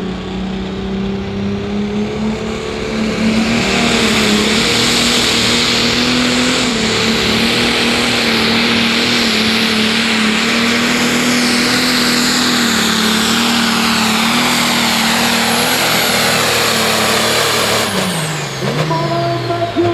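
Pro Stock John Deere pulling tractor's turbocharged diesel engine running loud at full throttle under load during a pull, with a high whine above it. About 18 seconds in the throttle comes off, and the engine note and the whine wind down.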